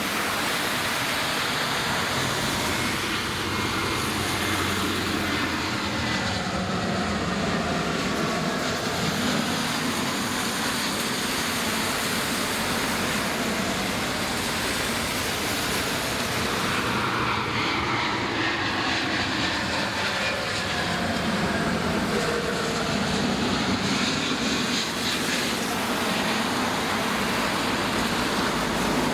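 Jet airliner engines: a steady rush of noise with faint whines that glide in pitch, once a few seconds in and again in the second half, as aircraft pass.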